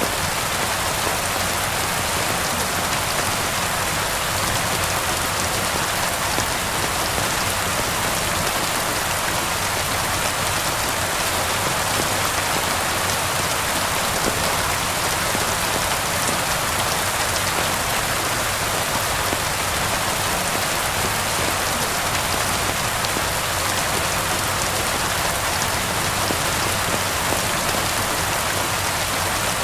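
Steady rain falling and pattering on surfaces, an even hiss with fine drop ticks and no let-up.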